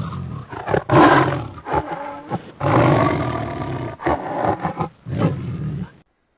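Recorded big cat roaring and growling loudly in several long, rasping surges, the strongest about a second in and another about three seconds in. The recording cuts off abruptly about six seconds in.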